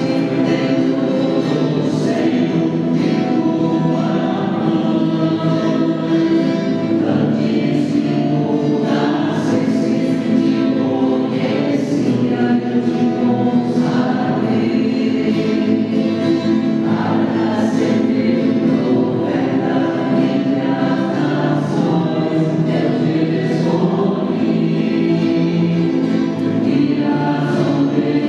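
A church choir and congregation singing an opening hymn, with musical accompaniment.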